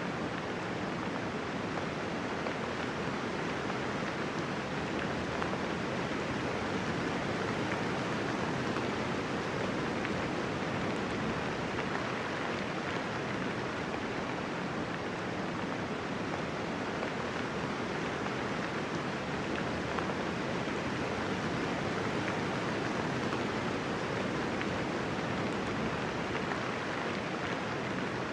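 Steady gentle rain falling, an even hiss of many drops with no thunder and no change in level.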